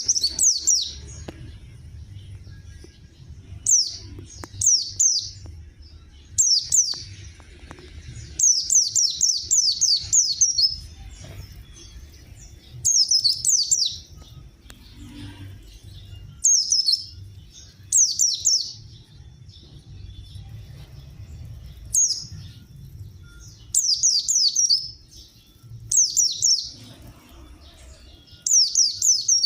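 White-eye (pleci) chirping: clusters of quick, high, descending notes, repeated every second or two.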